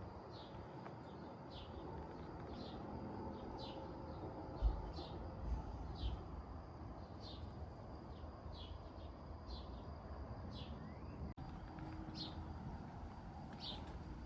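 Small birds chirping: short high calls repeating every half second to a second over a faint steady outdoor rumble, with a few low thumps near the middle.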